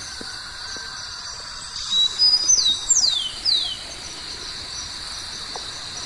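A bird calling: a few short high chirps about two seconds in, then three or four quick, clear whistles that each slide downward in pitch. A steady high ringing runs underneath.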